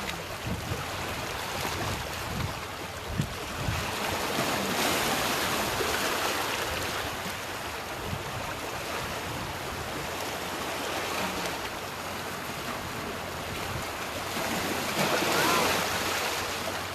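Sea surf washing onto the shore, swelling louder about five seconds in and again near the end, with a brief knock about three seconds in.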